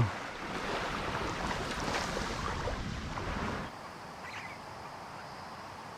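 Wind buffeting the microphone over small waves washing on the shore, easing a little after about three and a half seconds.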